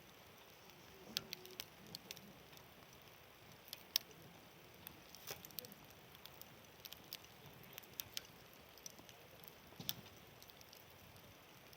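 Wood campfire burning with faint, irregular crackles and sharp pops over a low steady hiss.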